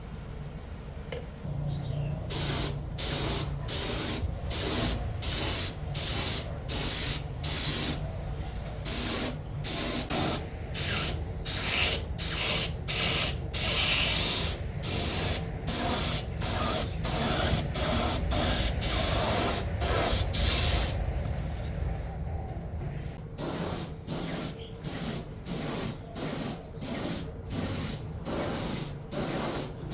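Spray hissing in short, rapid bursts, about two a second, with a brief pause about three-quarters of the way through, over a low steady rumble.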